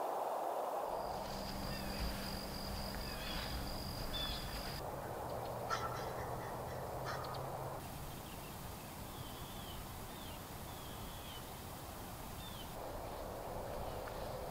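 Wild birds calling: scattered short chirps, then a series of short downward-slurred calls, over a steady low hum of man-made background noise in the first half. The background changes abruptly several times.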